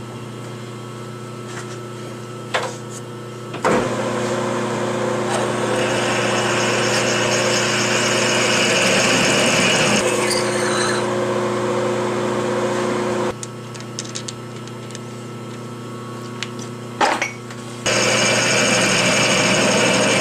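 Metal lathe running while cutting a counterbore into the end of a chrome-moly steel tube. A steady motor hum runs throughout, with a hissing cut that starts about four seconds in, stops about two-thirds of the way through, and starts again near the end. A few sharp clicks come just before each cut.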